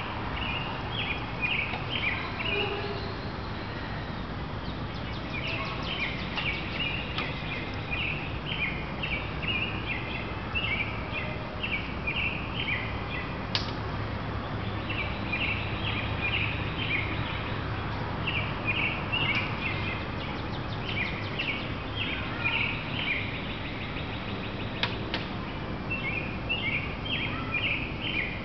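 Small birds chirping outdoors in repeated bursts of quick high notes, over a steady background of outdoor noise, with a few sharp clicks.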